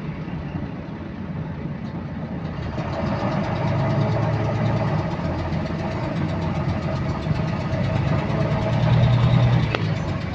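Bus engine pulling away and running up, with a rapid repetitive clicking that keeps time with engine speed. The engine note grows louder a few seconds in.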